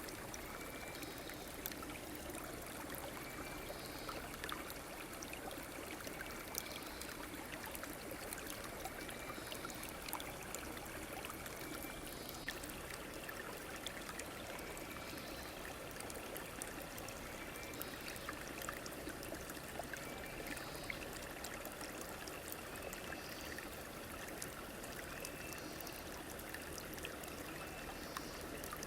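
River water flowing steadily, a continuous rush with small trickles and splashes. A faint short call repeats every couple of seconds.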